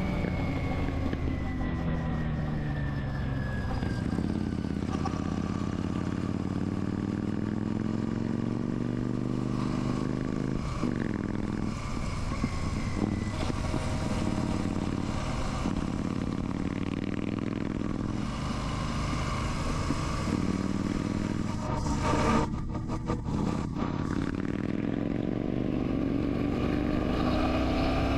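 Royal Enfield Classic 650's parallel-twin engine running on the move, its pitch falling as the bike slows in the first few seconds, then rising and falling again several times as it accelerates and eases off.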